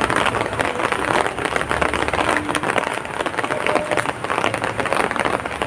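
Heavy rain falling: a dense, steady patter of many drops.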